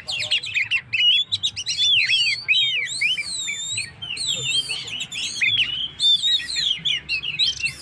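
Oriental magpie-robin (kacer) in full song: a fast, unbroken run of varied whistles and chirps, with a few long arching whistled notes about three seconds in.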